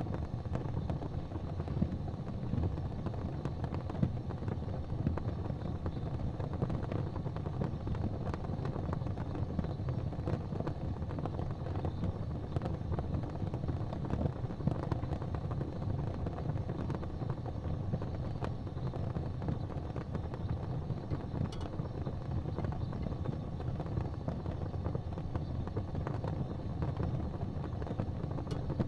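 Wood fire burning in a fireplace: a steady low rumble of flames with scattered small crackles and pops, one sharper pop about three-quarters of the way through.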